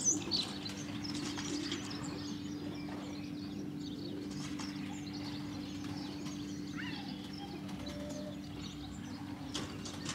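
Birds chirping, loudest right at the start, then only a few faint scattered chirps over a steady low hum, with a couple of faint clicks near the end.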